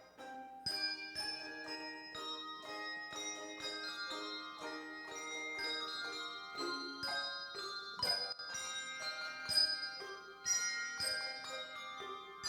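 Handbell choir playing a piece: many bells struck in turn and together, each note ringing on.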